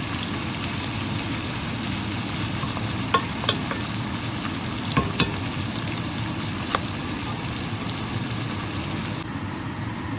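Onions frying in hot oil in a pan, a steady sizzle, with a few sharp clicks of a spoon stirring against the pan around the middle.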